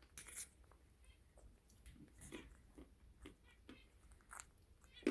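Quaker parrots cracking and nibbling nuts in their beaks: faint, irregular small crunches and clicks.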